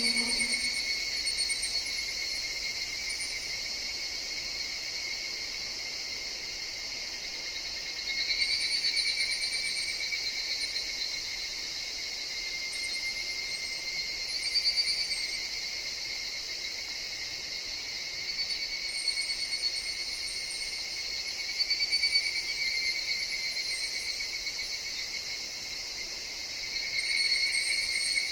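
A chorus of higurashi (evening cicadas) with a steady ringing drone that swells and fades every several seconds as individual calls rise over it. Faint, short high chirps come and go above it.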